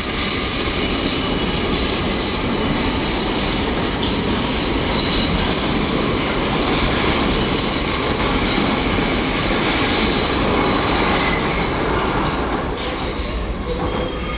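A Class 800 IET and a TfL Rail Class 345 electric train pulling out together, heavy running noise with high, steady squealing tones over it, fading near the end.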